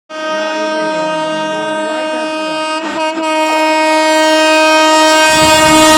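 High-speed train's horn sounding one long steady blast, broken briefly about halfway through. Near the end the rumble of the approaching train rises beneath it.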